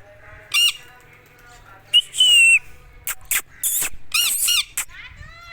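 A parrot giving a run of harsh, screeching squawks, a longer drawn-out call about two seconds in and a quick pair of calls near the end.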